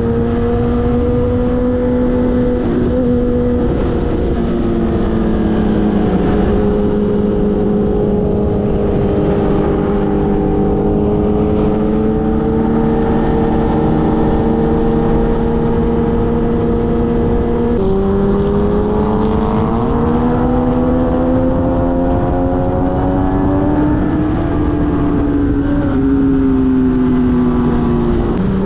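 Sportbike engine running at a steady cruising speed under wind noise. Its pitch drops sharply once, as on an upshift, then climbs again as the bike accelerates, and dips again near the end.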